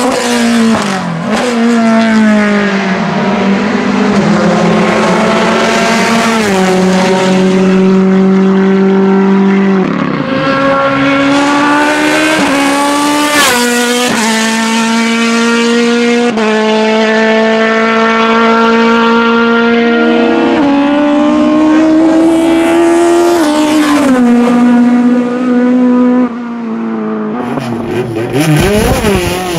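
Loud hillclimb race car engine at high revs, its pitch climbing, dropping back at gear changes and holding steady for a few seconds at a time.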